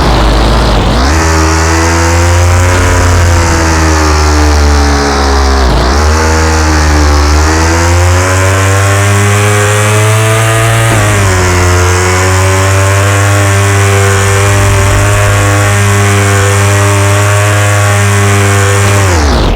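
KTM 390 Duke's single-cylinder engine running hard at high revs. Its pitch dips sharply and climbs back three times, about every five to six seconds.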